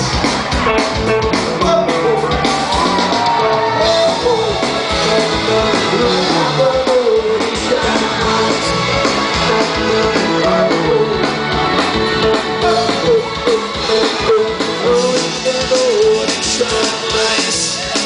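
Live rock band playing a song, with electric guitar prominent over a full, loud band sound.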